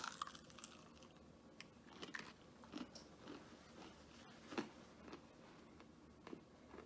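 Faint close-up chewing of fried food: soft wet mouth clicks and small crunches, irregular, with one louder crunch about four and a half seconds in.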